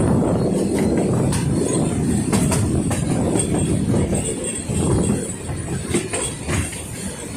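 Narrow-gauge steam train hauled by Puffing Billy locomotive 8A running along the line: a steady rumble of the wheels and carriages with scattered sharp clicks from the wheels over the rail joints, easing slightly near the end.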